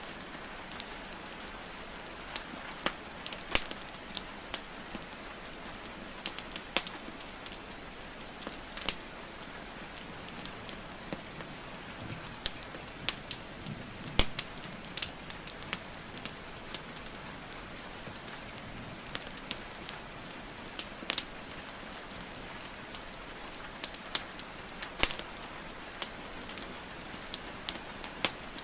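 Wood fire crackling and popping in sharp, irregular snaps over a steady hiss of falling rain.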